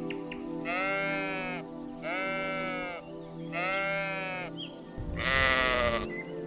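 Sheep bleating: three even bleats under a second each, then a louder, harsher fourth bleat near the end, over background music.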